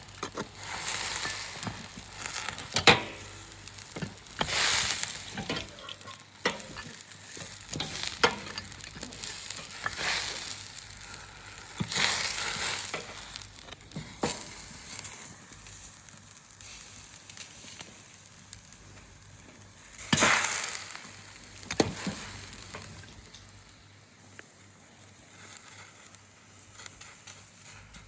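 Bone-in wild boar meat sizzling over a campfire. The hiss swells in surges every few seconds, with sharp pops and crackles between them.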